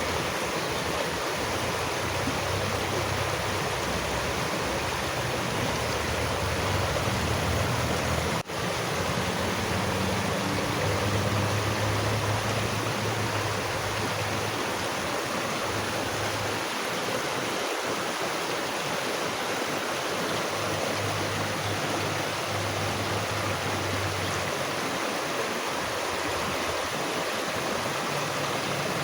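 Steady rushing of flowing water, like a stream, with a low rumble that swells and fades; the sound drops out for an instant about eight seconds in.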